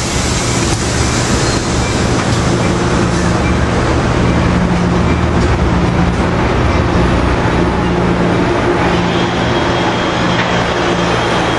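Amtrak passenger train departing, its two EMD F59PHI diesel-electric locomotives running under power with a steady low engine drone over loud rolling noise. A faint high tone joins about nine seconds in.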